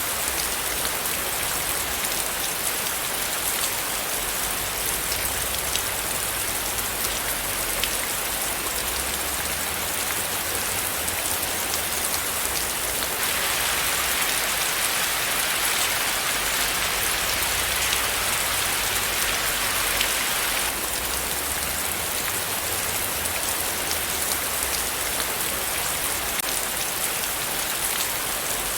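Steady rain falling, with many separate drops ticking through the hiss. The hiss grows a little heavier and brighter for several seconds in the middle.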